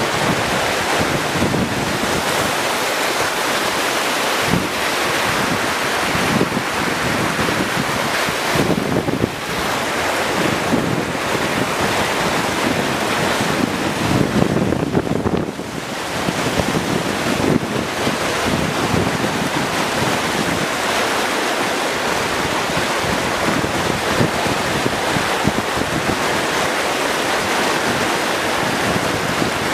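Floodwater rushing, a steady loud roar of water that swells and eases slightly.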